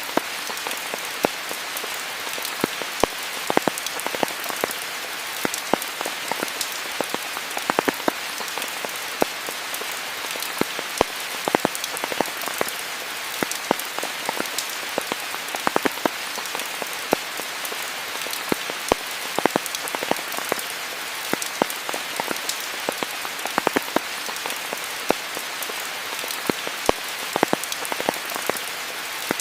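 Steady tropical rain: an even hiss, with many close individual drops striking as sharp, irregular ticks.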